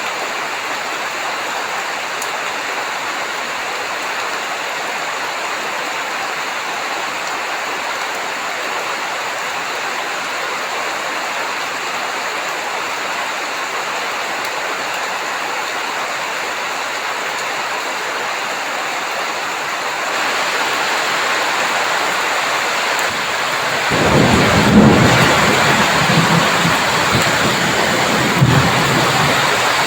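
Steady heavy rain hissing, growing louder about two-thirds of the way through. Near the end, thunder rolls in with a deep rumble, loudest about a second after it begins, with another surge shortly before the end.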